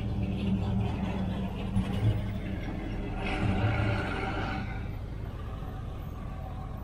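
A car engine rumbling close by, then fading away over the last couple of seconds, with a short higher-pitched sound partway through.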